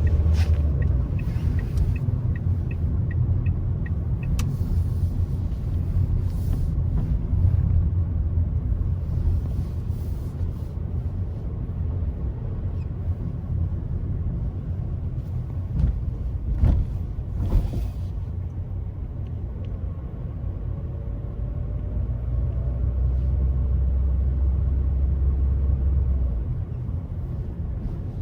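Car driving on a road: a steady low rumble of engine and tyres, the engine note rising and easing a little with speed. A few sharp knocks come about two-thirds of the way through, like the wheels going over bumps.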